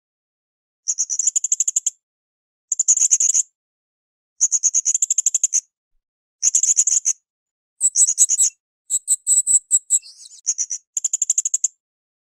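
Blue-crowned hanging parrot (srindit) singing in short, high-pitched bursts of rapidly repeated chattering notes, with a pause of about a second between bursts. Over the last few seconds the bursts come shorter and closer together.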